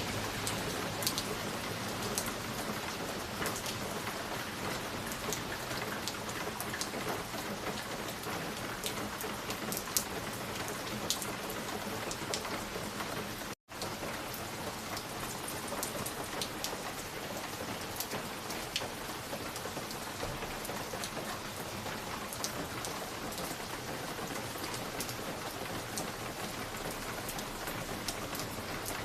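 Fireplace fire crackling: a steady hiss with many scattered sharp pops and snaps. The sound cuts out for an instant about halfway through.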